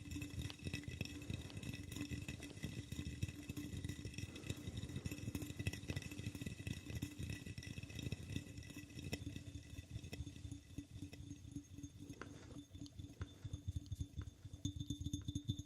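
Fast, continuous light tapping close to the microphone, many taps a second, over a steady hum.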